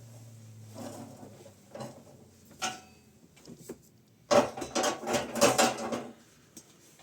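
Hard objects knocking and clattering as they are handled: a few separate knocks, then a quick run of clattering knocks lasting about two seconds, the loudest part.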